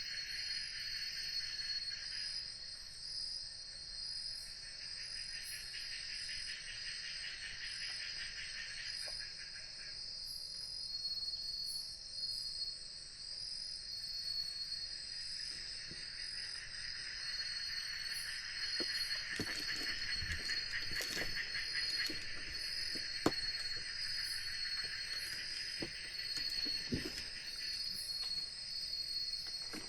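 Night insect chorus of crickets and other insects: a steady high trilling over a lower pulsing chorus. The lower chorus drops out twice in the first ten seconds and swells back from about the middle. Scattered soft clicks and knocks come in the second half.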